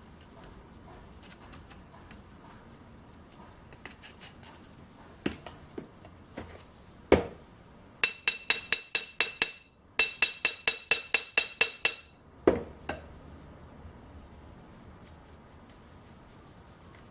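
Two quick runs of metal taps, about five a second, each tap ringing briefly at a bright high pitch, with a few single knocks before and after and quieter handling sounds in between.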